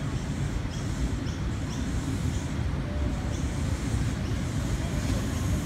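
Xplorer diesel multiple unit approaching on the rails: a steady low rumble growing slightly louder, with a few faint high chirps.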